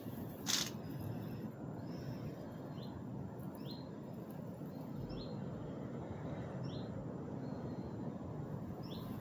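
A bird calling in short, repeated chirps, about one a second, over steady background noise; a single sharp knock sounds about half a second in.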